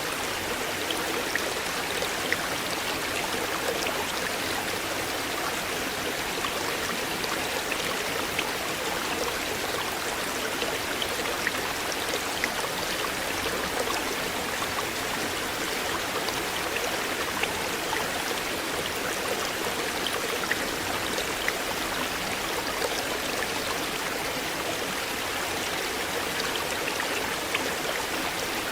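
Shallow river flowing and splashing: a steady rushing with many small drips and gurgles.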